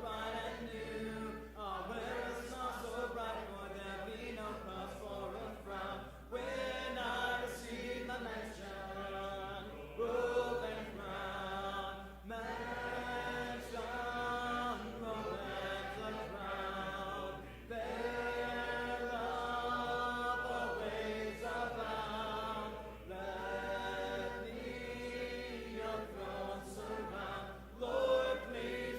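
A congregation singing a hymn together a cappella, with no instruments, in held phrases of a few seconds with brief breaths between them.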